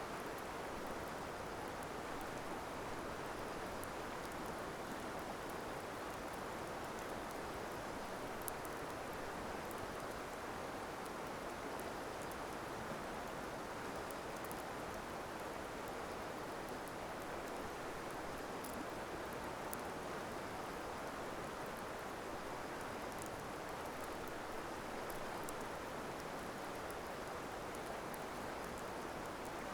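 A campfire burning, with faint, scattered crackles over a steady rushing hiss.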